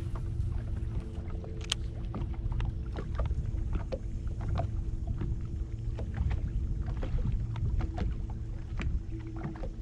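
Bass boat sitting on the water: a steady low rumble with a faint steady hum, and many irregular small clicks and ticks throughout.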